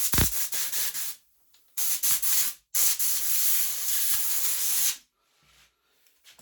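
Compressed air from a compressor-fed air gun hissing in three bursts, the last the longest at about two seconds.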